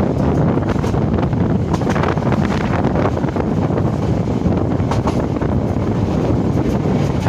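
A train running along the track: a steady, loud rumble, with wind buffeting the microphone.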